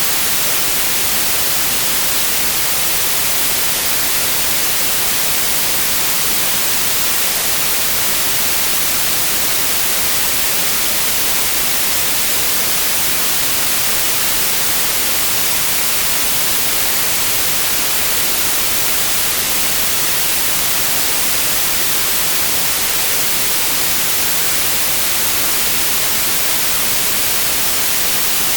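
Steady synthetic white noise: an even, unchanging hiss across the whole range of pitch, brightest in the treble.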